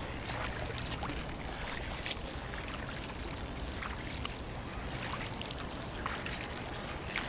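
Kayak paddle dipping into the water with soft splashes and drips about once a second, over steady water noise and wind on the microphone.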